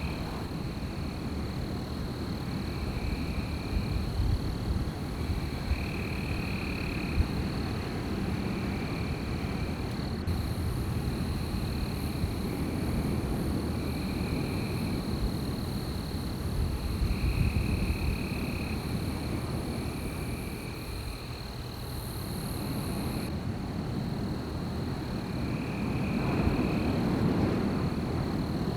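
Wind gusting, a low rumble that swells and eases, over a steady high-pitched night-insect drone and short repeated animal calls every second or two.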